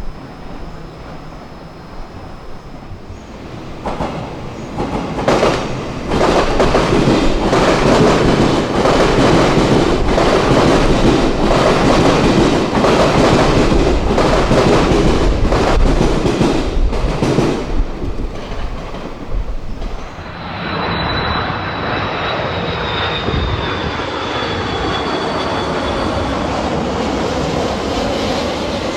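A train passing on the track, its wheels clattering rhythmically over the rail joints, loudest from about four seconds in until about eighteen seconds. From about twenty seconds in, a steadier rush with a high whine that slowly falls in pitch takes over.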